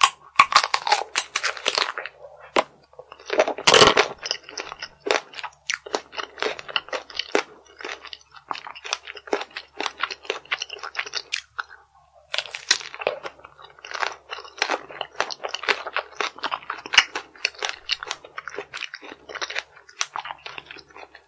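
Close-miked crunching and chewing of chocolate-coated strawberry tanghulu, the hard candy shell cracking in quick runs of crunches with short pauses between bites. The loudest crunch comes about four seconds in.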